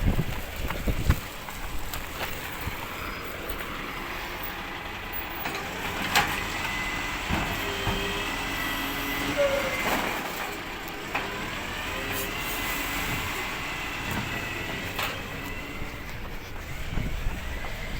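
Recycling truck working: a low engine rumble under a steady high whine that slides up and down in pitch a few times, with a few sharp clanks.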